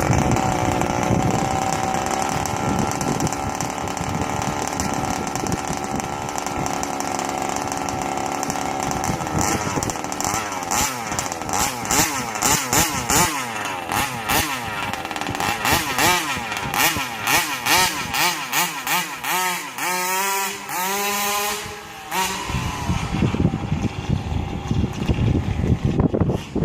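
Rovan 5T's 36cc two-stroke engine running steadily, then revved up and down over and over from about ten seconds in, its pitch rising and falling in quick sweeps, before dropping back to a rougher low running near the end.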